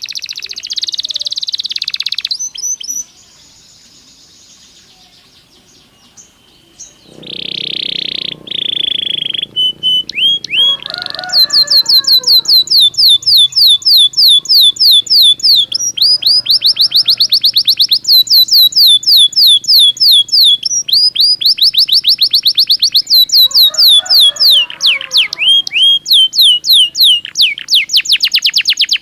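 Belgian canary singing. After a quieter pause early on and a smooth held note, it sings long tours of rapid, evenly repeated falling notes that are high-pitched and loud, broken by short pauses.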